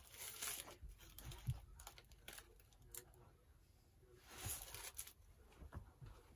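Faint chewing of a burrito, with small crinkles of its aluminium-foil wrapper and a louder rustle about four seconds in.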